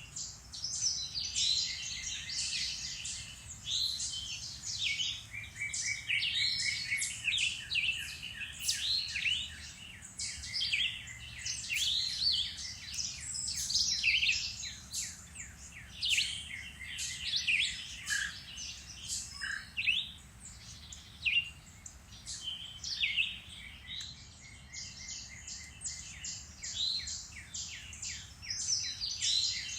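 A chorus of woodland birds singing and calling at once, with many overlapping chirps, rapid trills and quick sweeping notes.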